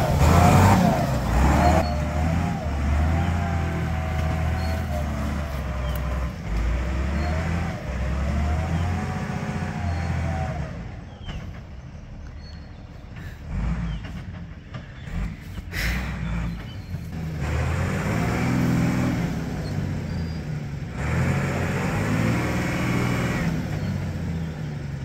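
Vehicle engine running under load on a rough, slippery track, its pitch rising and falling as the revs change. The engine is loud for the first ten seconds, drops back for several seconds in the middle, then picks up again.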